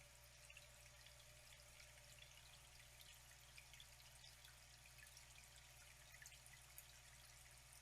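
Faint flowing water, trickling steadily with many small drips and splashes.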